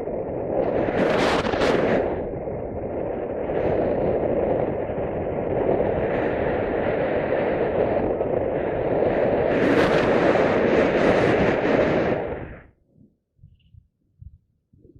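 Wind buffeting the microphone: a loud, steady rush of noise that flares twice, then cuts off suddenly near the end.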